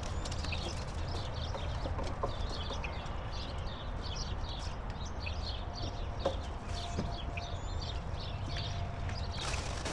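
Birds chirping over and over, with a steady low rumble underneath.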